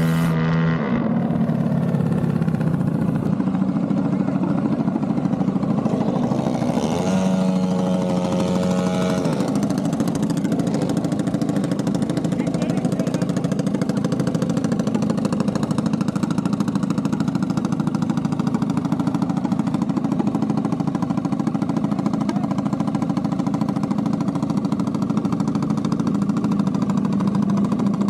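Vehicle engine running steadily and loudly, with a second, clearer engine note standing out for about two seconds around seven seconds in.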